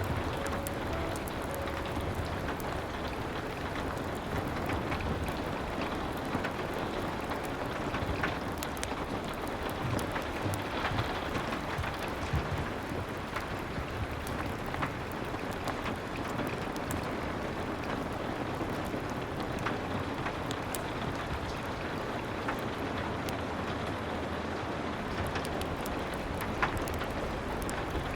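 Steady rain falling, an even hiss with scattered sharp little crackles and ticks through it.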